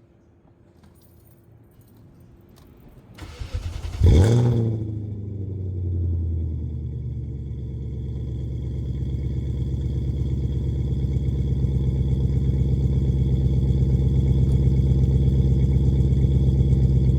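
Straight-piped BMW 540i V8 cold start: after about three quiet seconds the starter cranks briefly, the engine catches with a loud flare at about four seconds, then settles into a steady, fast cold idle. No throttle is given while it warms.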